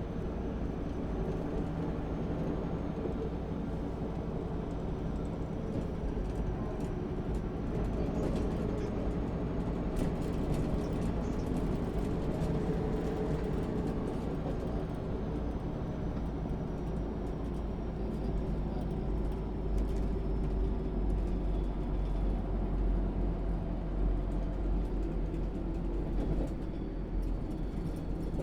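1996 MAN SÜ 272 bus's diesel engine running steadily: an even low drone, with a faint thin high whine that slowly sinks in pitch over the second half.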